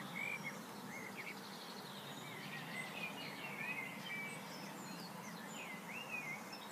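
Several small birds chirping and whistling in short, quick calls that rise and fall in pitch, over a steady background hiss.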